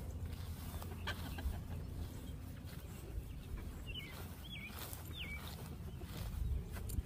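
Three short wavy chirps from a bird a little past the middle, over a steady low rumble.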